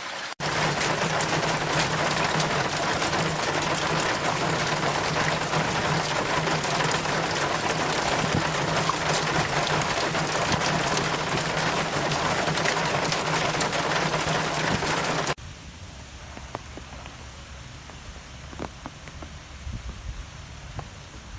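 Heavy, steady rain, which cuts off abruptly about 15 seconds in to lighter, quieter rain with separate drops dripping.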